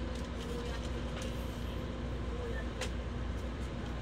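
Steady running noise heard inside the passenger cabin of a 700 Series Shinkansen under way: a low rumble with a steady hum, and a couple of faint ticks.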